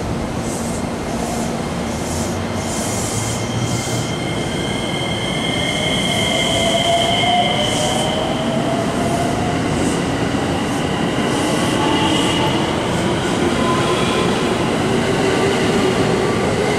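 A JR West 321 series electric train pulls into the platform, rolling past close by. Its traction motors whine with gliding tones, and a high steady wheel and brake squeal sounds over the rumble of the cars. The sound grows louder as the train comes alongside.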